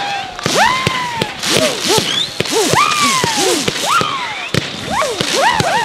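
Fireworks barrage: many whistling fireworks going off close together, each whistle sweeping up and then down in pitch, over a run of sharp cracks and bangs.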